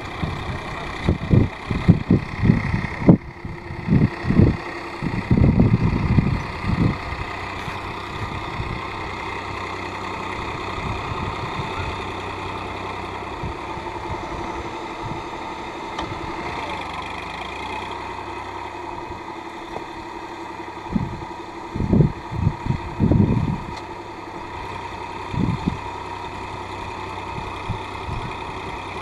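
Massey Ferguson tractor's diesel engine running steadily. Irregular loud low bursts come over it in the first several seconds and again about 21 to 26 seconds in.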